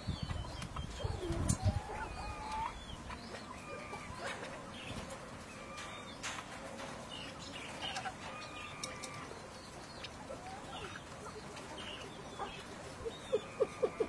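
Birds calling: many short chirps and whistles scattered throughout, with a quick run of low, evenly spaced pulses near the end.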